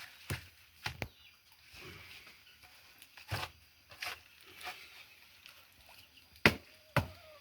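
A few separate knocks and thumps at irregular times, the loudest about six and a half seconds in and another just after it.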